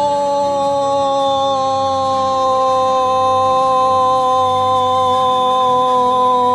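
One long held note at a single pitch, drifting slowly lower without a break.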